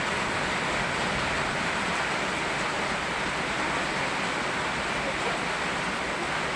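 Steady rain falling together with a flowing river, an even unbroken rushing hiss.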